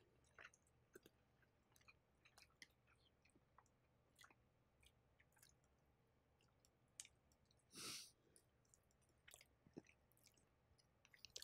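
Near silence with faint, scattered wet mouth clicks from quiet chewing close to the microphone, and one short breathy puff about eight seconds in.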